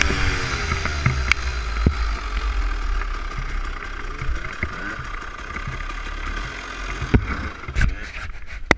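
Dirt bike engine settling to a low idle, after revving up just before. A few sharp knocks and clunks come near the end.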